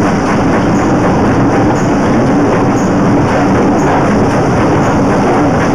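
Train running at speed, heard from an open carriage window: a steady loud rumble of the coaches' wheels on the rails, with a faint regular click about once a second.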